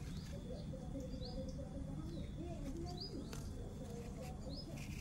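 A bird chirping repeatedly: short, high, rising notes about once a second, over a steady low background rumble.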